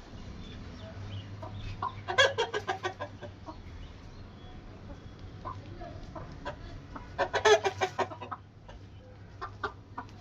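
Chickens clucking, with two bursts of quick, rapid clucks, about two seconds in and again about seven seconds in, over a steady low hum.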